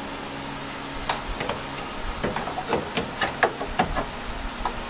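Irregular light knocks and clicks, about a dozen, as sheet-metal repair pieces are handled and test-fitted against a car's door post, starting about a second in and stopping near the end, over a faint steady hum.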